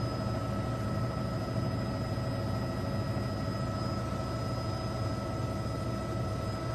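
Steady engine drone with a deep hum and several constant high whining tones, unchanging throughout.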